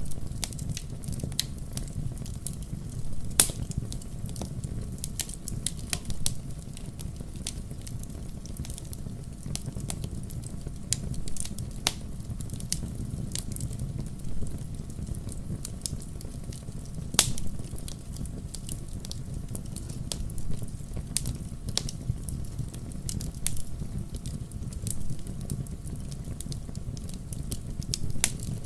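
Wood campfire burning with a steady low rumble and scattered sharp crackles and pops, a few louder snaps about three and a half seconds and seventeen seconds in.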